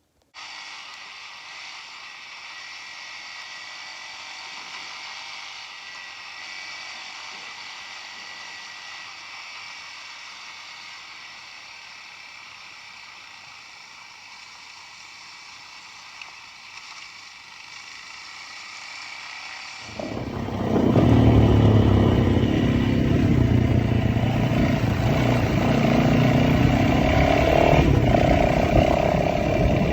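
A quiet, steady outdoor background with a high, even hum. About twenty seconds in, a motorbike engine cuts in loud and keeps running, its pitch wavering as the revs change.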